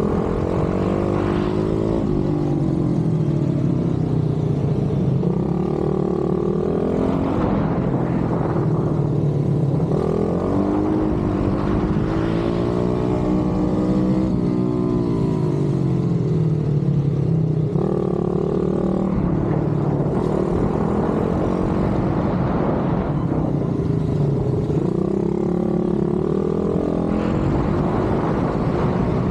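Pit bike engine revving hard. Its pitch climbs and then drops off sharply about seven times, as it accelerates through the gears and lets off.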